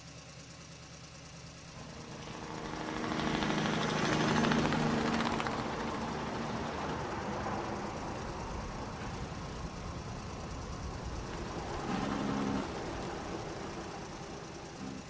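Engine-like vehicle rumble, swelling louder a few seconds in, then running steadily, with a brief low tone near the end.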